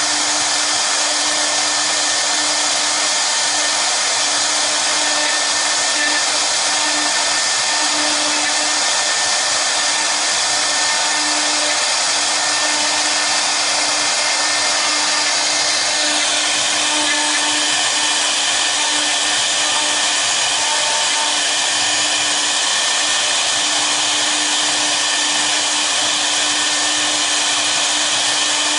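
Double-head CNC router running steadily with its spindles turning, a loud even whir with a constant hum underneath; the high hiss changes tone slightly about halfway through.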